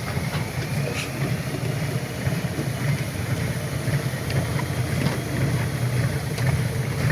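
A boat's diesel engine running steadily, with an even low throb.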